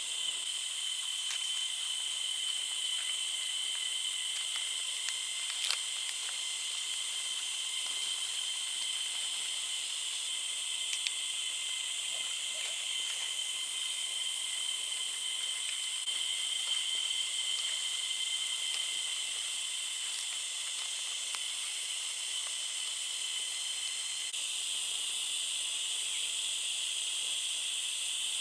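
A chorus of forest insects buzzing steadily at several high pitches over a light hiss. The mix of pitches shifts near the end, and a couple of faint clicks come through.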